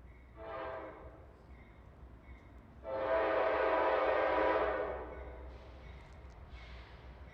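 Locomotive air horn chord sounding a short blast, then a long blast of about two seconds.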